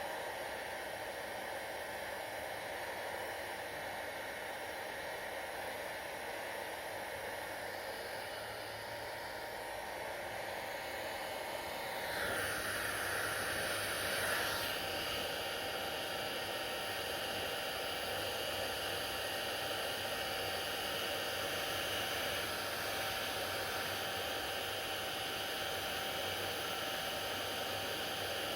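Hair dryer running steadily with a constant blowing hiss. About twelve seconds in, its sound briefly brightens and then settles at a slightly louder, changed pitch.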